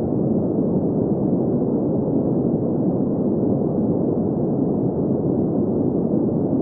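Steady green noise: an even, unchanging hiss centred in the low-middle range, rolled off above about 2 kHz.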